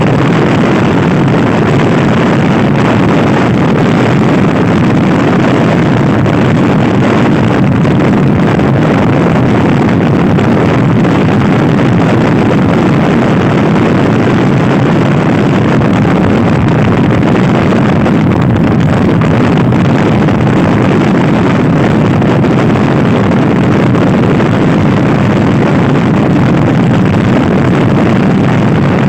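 Loud, steady wind noise buffeting the microphone on a Honda Scoopy-i scooter ridden hard, with the scooter's engine running underneath.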